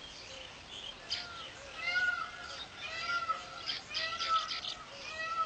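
Weaver birds calling in a colony: a run of short, arched, mewing notes repeated about once a second over thin high chattering.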